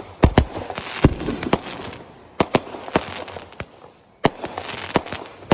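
Fireworks shells bursting in the air: a string of sharp booms with crackling between them. There is a short lull a little before the end, broken by another loud bang.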